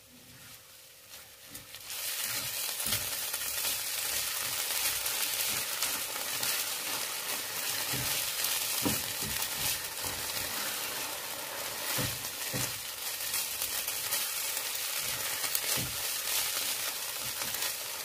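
Minced chicken liver and light cream sizzling in a non-stick frying pan as a spatula stirs them together. The sizzling starts about two seconds in, with a few short scrapes of the spatula against the pan.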